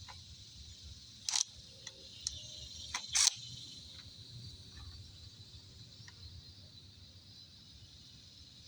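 A few sharp clicks and clacks, the two loudest about two seconds apart, over a faint steady chirring of insects; the mower engine is not running.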